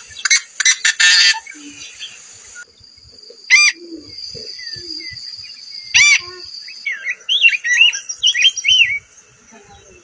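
Yellow-headed blackbird giving its harsh, buzzy, rasping song at the start. Then two loud, sharp calls about two and a half seconds apart, the second from a marbled godwit. Near the end comes a run of quick warbled, whistled songbird phrases.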